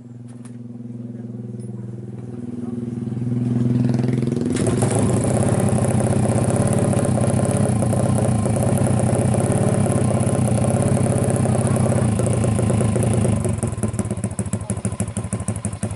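200 cc racing motorcycle engine running: a steady idle, then held at higher revs and much louder from about four seconds in, with the level pulsing up and down near the end.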